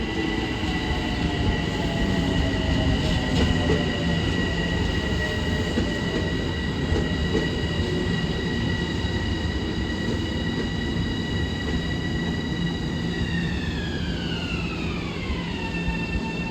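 Long Island Rail Road train running through the station: a steady low rumble under a high whine made of several layered tones. Near the end the whine glides smoothly down in pitch and then holds steady.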